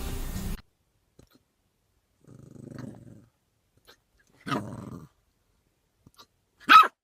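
A dog growls low, then gives a growling bark and, near the end, a short, loud, sharp bark.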